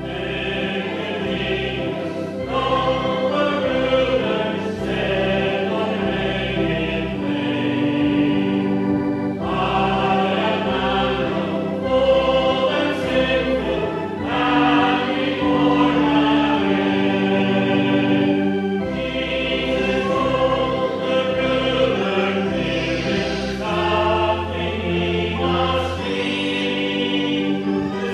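Children and congregation singing a song together in unison, with steady instrumental accompaniment and bass notes under the voices.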